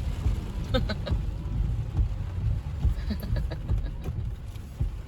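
Car driving on wet city streets, heard from inside the cabin as a steady low road rumble, with a brief faint voice about a second in.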